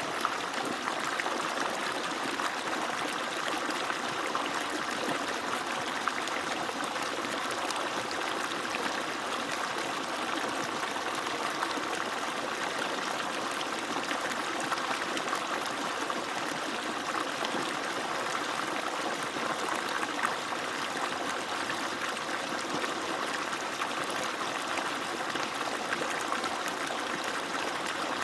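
Water pouring steadily from the outlet pipe of an agricultural water pump and splashing into water below, a continuous even rush.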